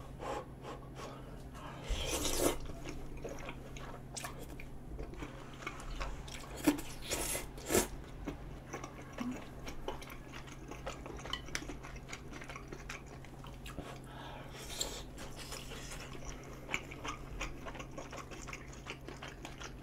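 Close-miked chewing of soft rice cakes and melted cheese: irregular wet smacks and small mouth clicks, with a louder noisy mouth sound about two seconds in and a few sharper smacks around the middle.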